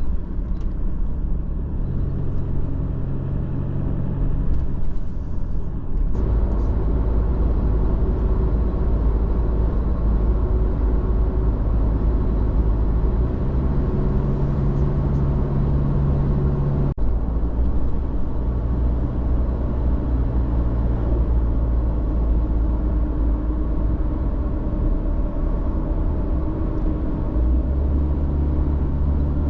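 Four-wheel-drive vehicle driving: a steady low engine drone and road rumble, with the engine note shifting up and down in steps. The sound changes abruptly about six seconds in and again about seventeen seconds in.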